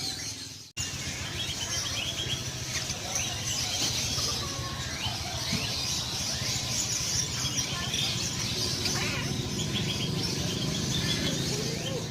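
Many caged birds chirping and twittering, with short quick runs of repeated notes, over a steady low background of market noise. The sound drops out briefly just under a second in and again near the end.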